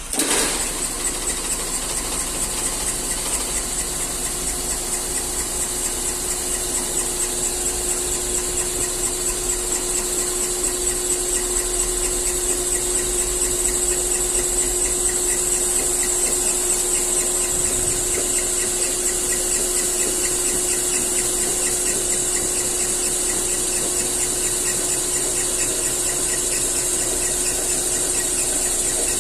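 A machine running steadily: an even whine with a high, squealing hiss. It starts abruptly and holds without change.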